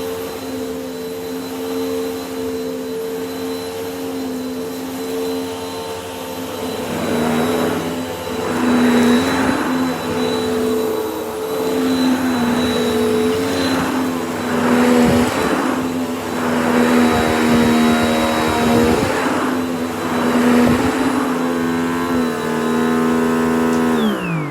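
Vacuum cleaner running: a steady motor hum with a high whine. From about a quarter of the way in, the sound swells and dips in regular surges every second or two. Near the end it is switched off and the motor winds down in falling pitch.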